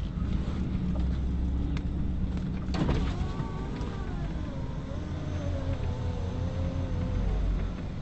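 Car running at low speed, heard from inside the cabin as a steady low hum. About three seconds in there is a click, then a long, slowly wavering whine.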